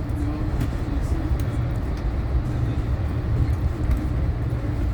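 Steady low rumble of a moving passenger train heard from inside the coach, with a few faint ticks over it.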